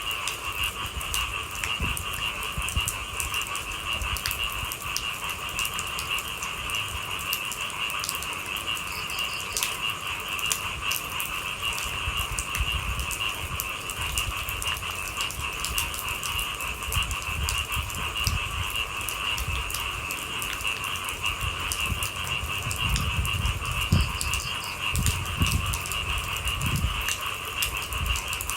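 Rain falling at night under a continuous chorus of night animals, a steady trilling drone in two pitch bands. Scattered raindrop ticks run through it, with low rumbles in the last few seconds.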